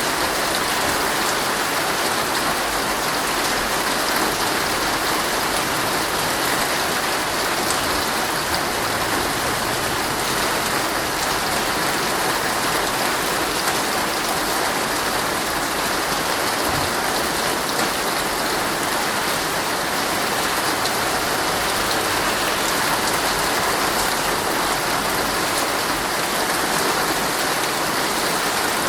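Heavy rain falling steadily on a tent's fabric, heard from inside the tent.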